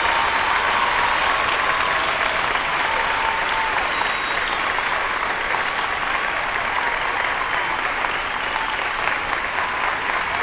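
Crowd applauding and cheering: steady, dense clapping with drawn-out cheering voices over it.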